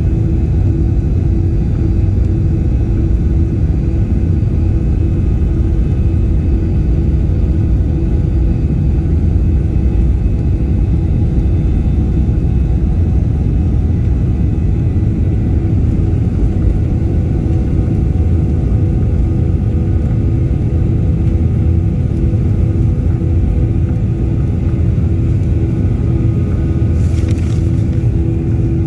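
Airliner engines running with a steady, loud low rumble and a constant hum that does not rise or fall. A brief rattle shows near the end.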